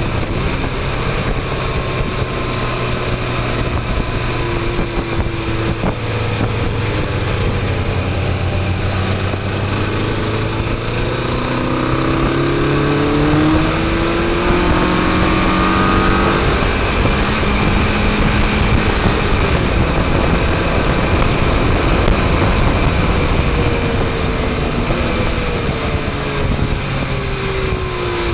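Motorcycle engine pulling under way, its pitch climbing and dropping as the rider works the throttle, over a steady rush of wind noise.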